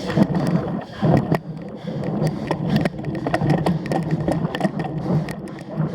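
Cyclocross bike ridden hard over rough ground, the frame and drivetrain rattling, with many quick knocks and tyre noise.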